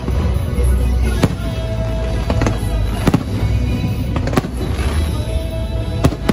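Aerial fireworks bursting overhead: about five sharp bangs at irregular gaps of roughly a second, over a continuous low rumble, with the show's music playing along.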